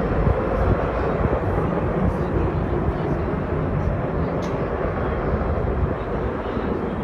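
Airplane engine noise, steady and heavy in the low end, easing off slightly as the aircraft draws away.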